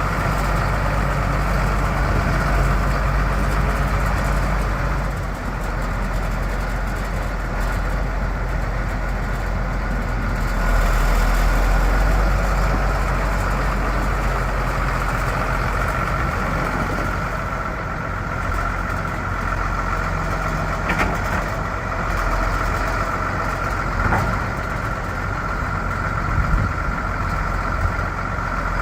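A 1993 John Deere 8770 articulated tractor's Cummins six-cylinder diesel engine running steadily at idle, with a steady high whine over the engine sound.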